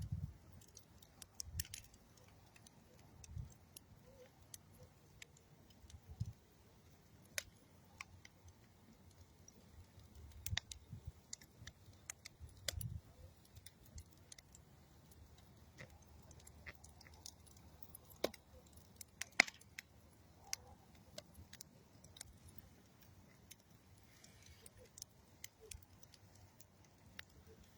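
Campfire of old railroad wood and dead tree wood crackling: faint, irregular sharp pops and snaps, a couple louder ones past the middle, with a few soft low thumps.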